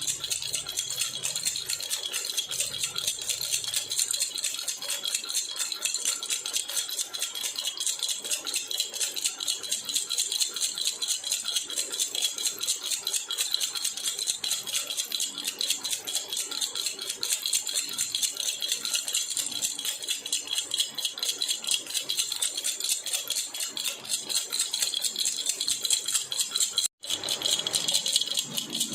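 Silver jhunjhuna (baby rattle) shaken continuously in a rapid, steady rhythm, its metal pieces jingling brightly. Near the end the sound cuts out for a split second, then carries on.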